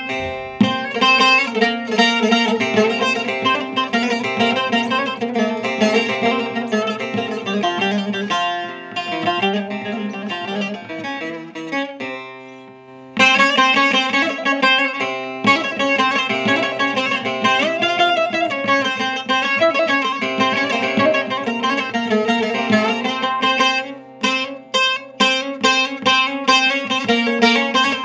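Bağlama (saz) played solo in a free-rhythm uzun hava improvisation, with quick plucked runs over ringing open strings. About halfway through, the notes die away, then a hard strike starts a new phrase.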